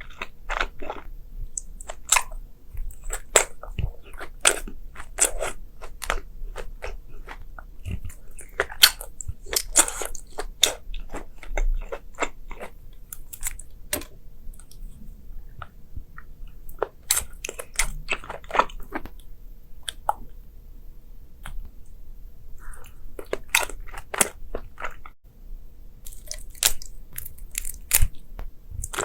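Crunchy food being bitten and chewed close to the microphone: irregular runs of sharp, crisp crunches, thinning out briefly about two-thirds of the way through.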